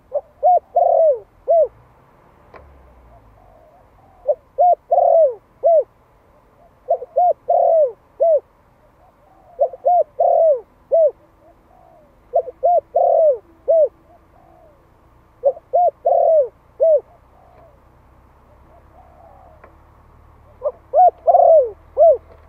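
Male spotted dove of the Malai strain calling: seven cooing phrases of about four notes each, repeated every two to three seconds, with a longer gap before the last phrase. It is a territorial call of the kind used to draw in wild doves.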